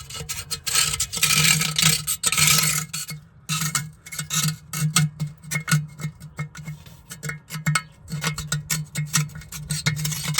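Scraping and rasping on the corroded metal of an old water heater tank, strongest in the first few seconds, followed by many irregular clicks and taps.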